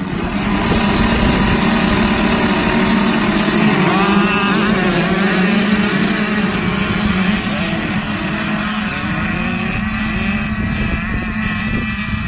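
65cc two-stroke motocross bikes racing, engines running hard under a steady drone, their pitch sweeping up and down as the throttle is opened and closed, most clearly about four seconds in and again near the end.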